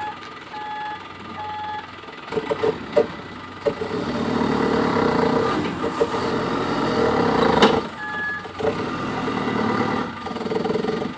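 Loaded dump truck's engine running, rising to a loud, hard-working pull after a couple of seconds, with a reversing alarm beeping three times at the start and once more later. A sharp click cuts in about three quarters of the way through.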